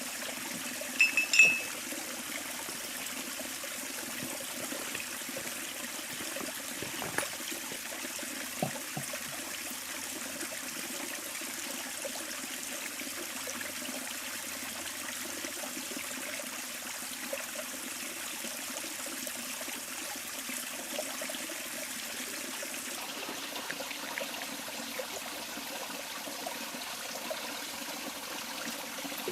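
A river flowing steadily with a trickling, pouring sound. About a second in there is a brief high-pitched ringing tone, the loudest thing heard, and a few light knocks follow later.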